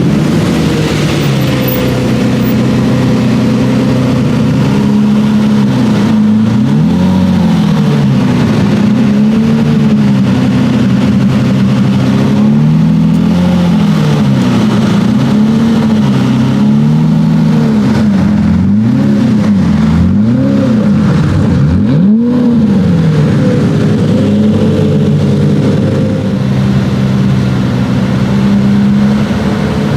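Lamborghini Murciélago V12 engine and exhaust being revved again and again, the note climbing and falling in quick blips between steadier stretches.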